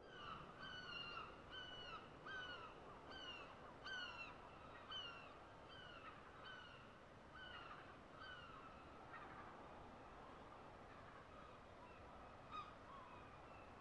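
Faint bird calls: a short, falling call repeated about once every three-quarters of a second, over a low background hiss. The calls thin out and grow fainter after about eight seconds, and a soft click comes near the end.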